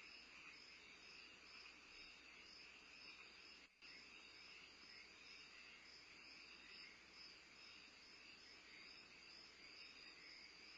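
Faint, steady chorus of crickets trilling at night, two pulsing trills at different pitches going on together. The sound drops out for a moment about four seconds in.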